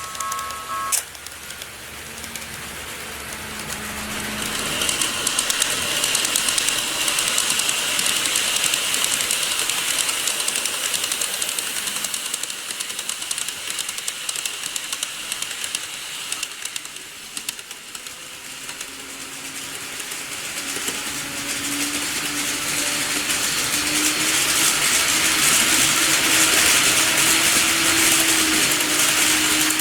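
KATO model trains running on layout track: a rush of wheels on rail with a faint motor whine swells and fades, then swells again as a train passes a second time. A sharp click sounds about a second in.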